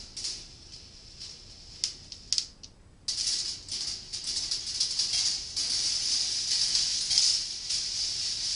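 Steel balls rolling and clicking along the stainless steel wire tracks of a rolling ball sculpture: scattered single clicks at first, then a continuous metallic rattling roll that starts suddenly about three seconds in.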